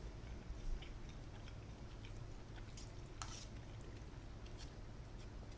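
Person chewing food close to the microphone: soft, scattered mouth clicks, one a little louder about three seconds in, over a low steady hum.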